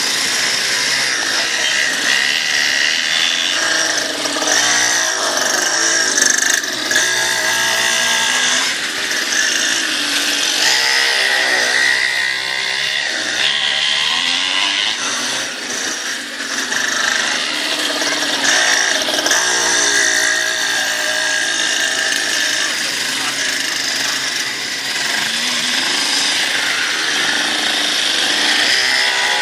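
Mini dirt bike's small engine running and revving, its whine rising and falling in pitch again and again.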